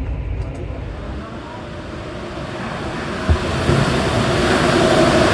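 MP14 metro train's running noise, a steady rush that grows louder through the second half, with some steady tones coming in.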